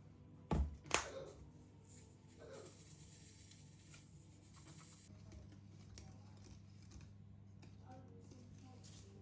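Household handling noises: two sharp knocks about half a second apart near the start, then a soft hiss for a couple of seconds, over a steady low hum.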